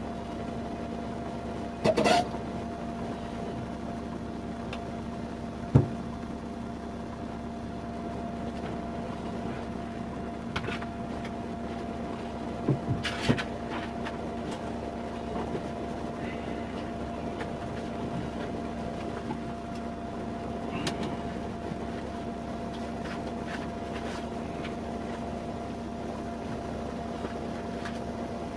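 Steady mechanical hum with two held tones, broken by a few short knocks and clicks.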